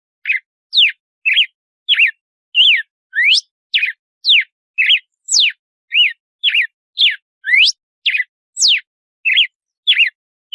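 Red-cowled cardinal (galo-de-campina) singing its 'açoite' song: a steady string of short, clear whistled notes, two or three a second, some sweeping up and some sweeping down.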